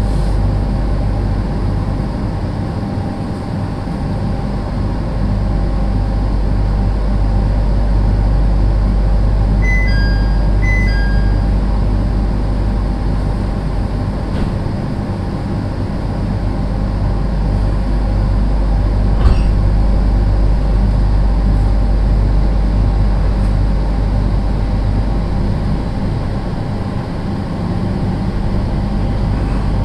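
JR 701 series electric train's running sound inside the car: a steady rumble of wheels on the rails with a low hum. Two short pairs of high beeps come about ten seconds in.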